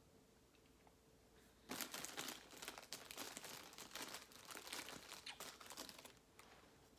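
Plastic food packaging being handled and crinkled, a dense irregular crackling that starts about a second and a half in and dies away near the end.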